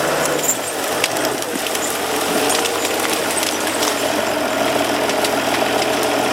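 A heavy machine's diesel engine running steadily, with scattered short clicks and cracks over it.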